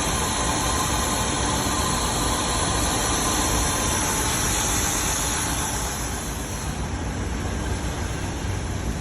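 Van engine running steadily with a severe misfire, getting a little quieter about six seconds in. The misfire is cylinder 3: its coil gets no ignition trigger even though the computer sends one.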